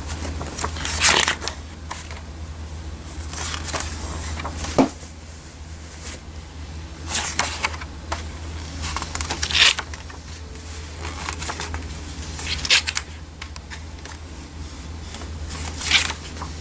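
Paper brochures being handled and their pages turned: short rustles every few seconds over a steady low hum.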